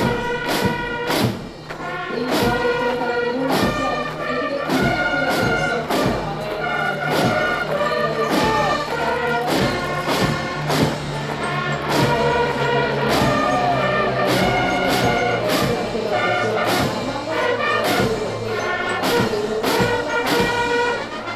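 Military brass band playing a march, with held brass notes over a steady, evenly spaced drum beat.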